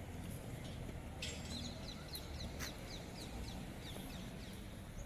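A bird calling in a quick series of short, high, falling notes, about five a second, over a steady low hum of city background noise.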